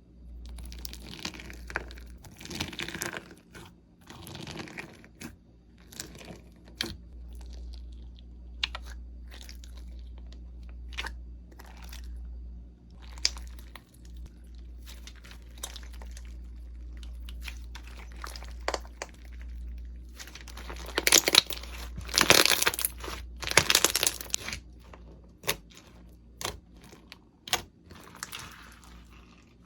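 Slime being squished and handled, with crisp crackling and popping clicks scattered throughout and a denser, louder run of crunching about two-thirds of the way through.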